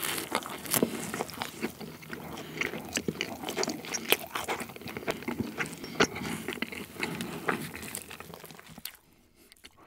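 Close-miked chewing of a buttered crusty bread roll: crisp, irregular crackles and crunches of the crust, stopping about nine seconds in.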